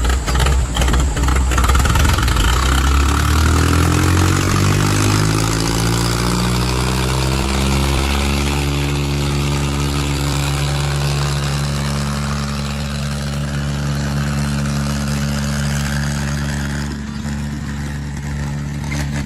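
Diesel tractor engines running hard. Their pitch climbs over the first few seconds, then holds steady and loud.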